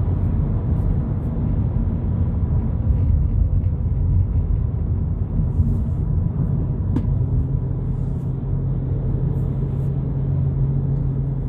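A 2022 Volkswagen Polo GTI driving along, heard from inside: a steady low road-and-engine rumble. About seven seconds in, a steady low engine drone comes in and holds, with a single short click at about the same moment.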